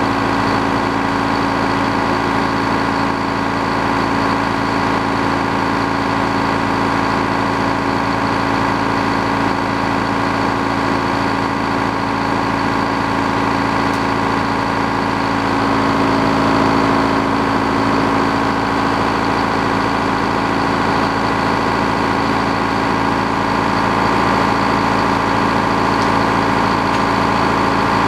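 Sawmill engine running steadily, a little louder from about halfway through.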